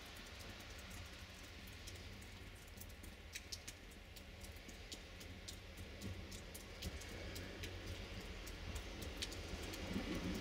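Two-car diesel multiple unit approaching at low speed, its low engine rumble growing louder over the last few seconds. Scattered light ticks sound throughout.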